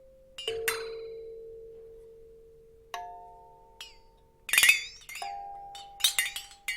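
Bell-like chime notes struck one at a time, three in all at different pitches, each ringing and slowly fading. Short high chirping or tinkling sounds come between the later notes.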